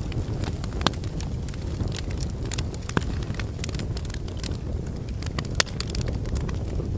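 Logs burning in a fireplace: a steady low rumble of flames with frequent small crackles and a few louder pops, about one second in, three seconds in and near six seconds in.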